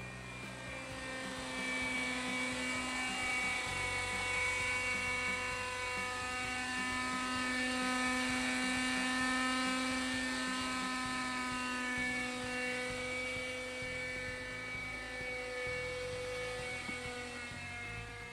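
Kyosho Nexus nitro RC helicopter's glow engine and rotor running steadily in flight, with a slight drift in pitch. It gets louder about two seconds in and eases off near the end.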